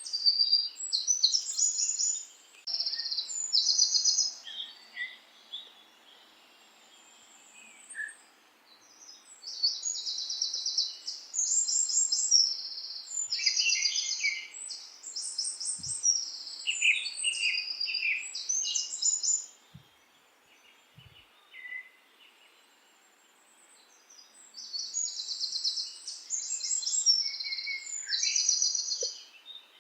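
Songbirds singing in bouts of rapid, high, repeated trilled notes, each bout lasting a few seconds, with pauses in between and a faint steady hiss underneath.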